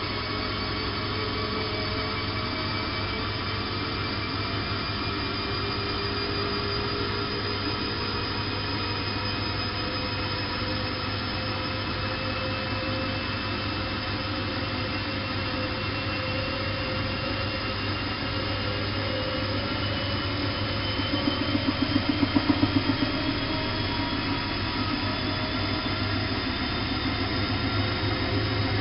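Bosch WFK 2431 washing machine running, its motor whine rising slowly in pitch as the drum speeds up, over a steady low hum. About three-quarters through, a few seconds of louder rhythmic thumping.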